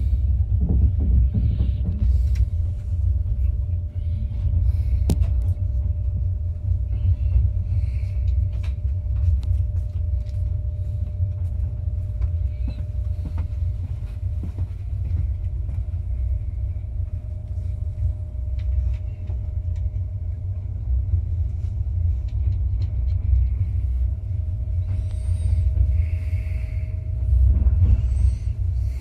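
Low rumble of a moving passenger train heard from inside the carriage, with a faint steady whine and scattered light clicks and rattles.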